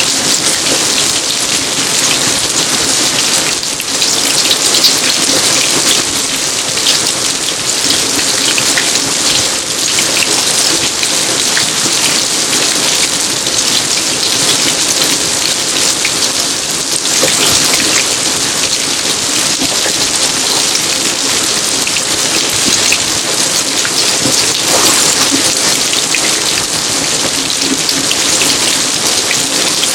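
Steady rain falling on an outdoor garden: a dense, even hiss of many drops with small ticks of individual drops hitting surfaces.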